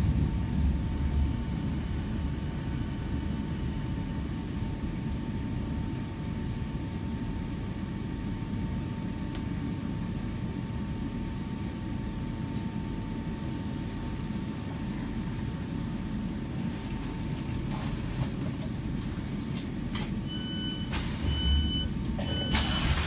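Steady low rumble of a Southeastern electric train heard from inside the carriage, with a faint steady hum that stops a little past halfway. Near the end a repeated high electronic beeping starts, like door warning beeps, with a short rush of noise.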